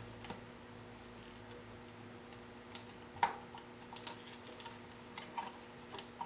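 Scattered light clicks and taps of small metal parts being handled as screws are worked into an engine oil bypass adapter, the sharpest tap about three seconds in, over a faint steady hum.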